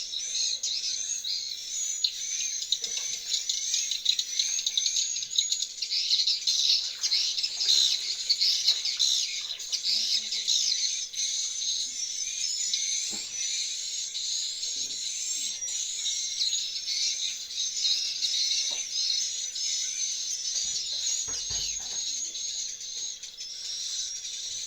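Swiftlets chirping in a swiftlet house, a dense, continuous chatter of high, rapid chirps.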